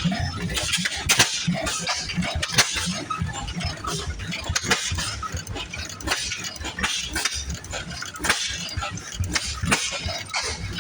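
Antique engine running with irregular sharp metallic clicks and clinks over a low, uneven chugging.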